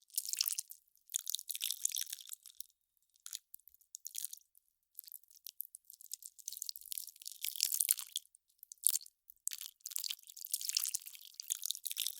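Melting ice crackling in irregular bursts of fine, high-pitched crackle, separated by short silent gaps.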